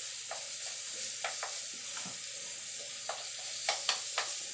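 Ginger frying in butter and oil in a metal wok, a steady sizzle, while a wooden spoon stirs it, knocking and scraping against the pan at irregular moments, several knocks close together near the end.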